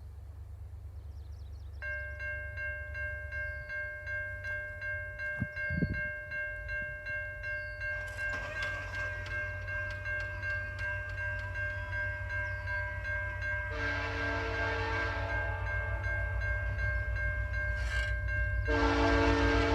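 Railway grade-crossing bell starts ringing about two seconds in with steady even strokes, while an approaching diesel locomotive's rumble grows louder. The locomotive's horn sounds two blasts, a short one and a second starting near the end.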